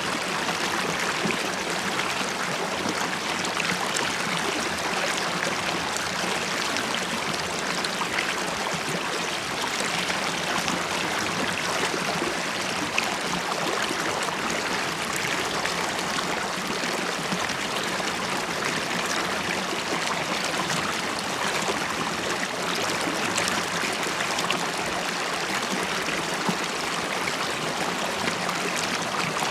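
River water flowing and burbling steadily, with a dense, even rush full of small bubbling pops.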